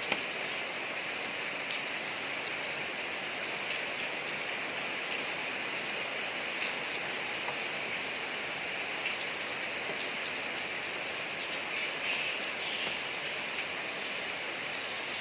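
Steady rain falling on a street: an even hiss of rain with faint scattered drop ticks.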